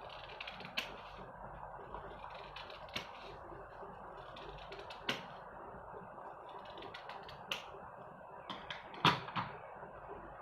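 Scissors snipping paper: separate sharp snips every second or two, with a quick cluster of several near the end, over a low steady hiss.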